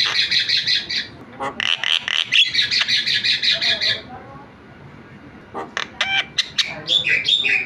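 Javan myna (jalak kebo) chattering: fast runs of harsh, buzzy notes, then a pause of about a second and a half. After the pause come varied whistles, squawks and gliding notes.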